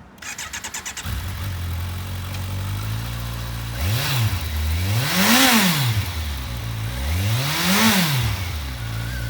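Kawasaki Versys 1000 inline-four with an Akrapovic exhaust, cranked briefly on the starter and catching about a second in. It then idles steadily and is revved twice, each blip rising and falling over about a second and a half, before settling back to idle.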